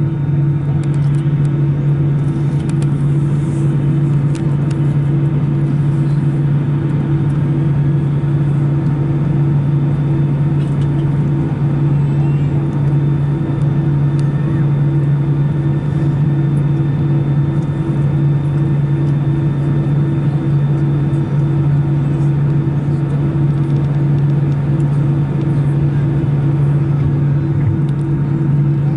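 Steady cabin drone inside an Airbus A319, with its engines and air system running: a constant low hum with a higher steady tone above it, unchanging in level.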